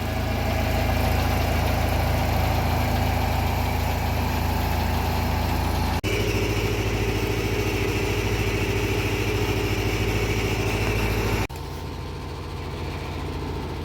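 Engine of a boat lift running steadily at idle. Its hum changes abruptly twice, about six seconds in and again near the end, where it becomes quieter.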